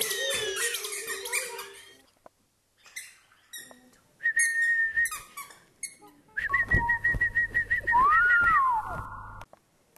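Bird-like chirps and whistles: a busy burst of chirping, a short pause, then high trilled whistles and a whistle that rises and falls near the end.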